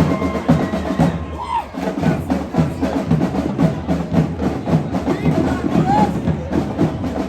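A drum group playing a fast, busy rhythm of repeated drum strikes, with voices underneath.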